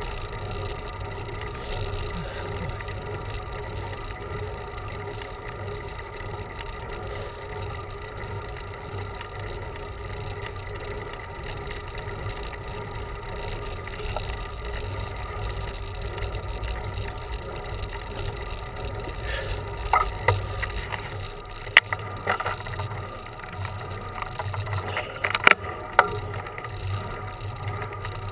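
Bicycle riding noise: a steady rush of wind and road rumble on a camera carried on the bike, with a few sharp clicks and rattles in the last third.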